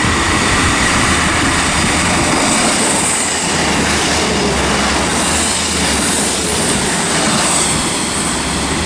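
A pair of Class 159 diesel multiple units passing through the station: a steady, loud rumble of engines and wheels on the rails, with a thin high wheel squeal in the first second.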